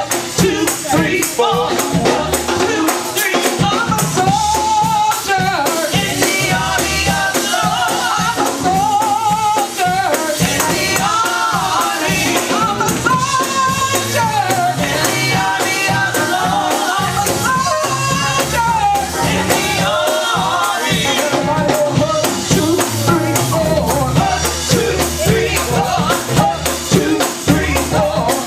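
Live gospel praise music with a tambourine shaking on a steady beat, a bass line underneath and voices singing over it.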